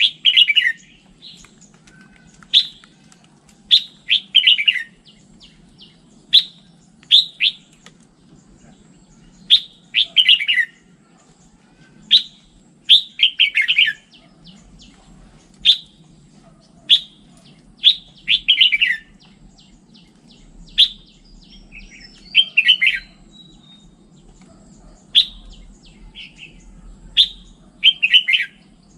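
Red-whiskered bulbul singing: short, bright, chirpy phrases repeated every second or two, some of them quick runs of notes that fall in pitch.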